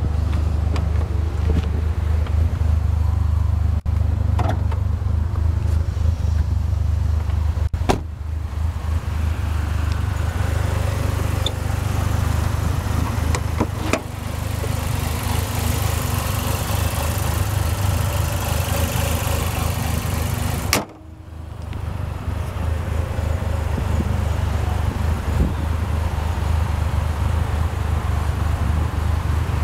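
Chrysler PT Cruiser GT's 2.4-litre turbocharged four-cylinder engine idling steadily, with wind rumbling on the microphone. A few sharp clicks are spaced through it.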